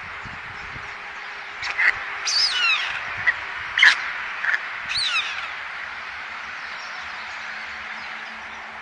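Birds calling: a handful of short, sharp chirps, each falling quickly in pitch, between about two and five and a half seconds in, over a steady outdoor hiss.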